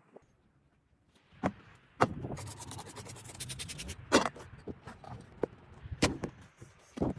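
Hand work in a workshop: a few sharp knocks, with a quick rasping or scraping stretch in the middle.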